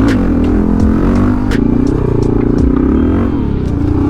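Motorcycle engine revving, its pitch rising and falling several times as the rider pulls wheelies, with a few sharp clicks over it.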